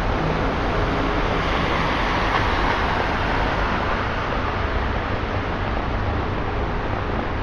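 Road traffic on a wet, flooded street: a vehicle's tyres swish through standing water as it passes, swelling and then fading over a steady wash of traffic and rain noise.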